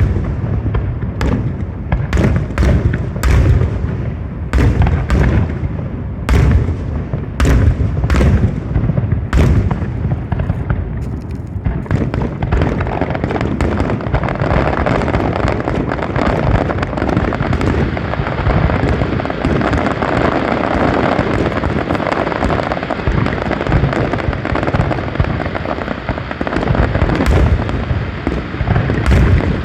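Fireworks display: a rapid run of separate bangs and booms, which about twelve seconds in merges into a dense, continuous wash of noise with occasional sharper bangs.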